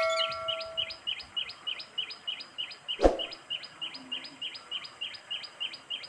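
A bird chirping in a steady series, about four short chirps a second. The first second carries the fading ring of a bell-like notification chime, and a single sharp click comes about three seconds in.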